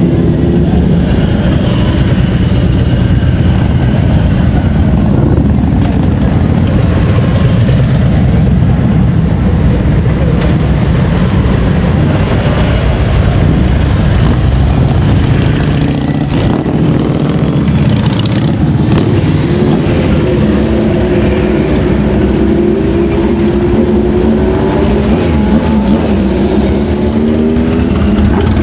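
Several motorcycle engines running loud and close, with repeated revs that rise in pitch, once near the start and again several times in the last third.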